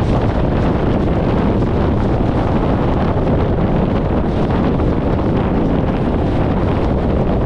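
Steady wind buffeting an externally mounted camera microphone on a car moving at highway speed, with the rush of road and tyre noise underneath.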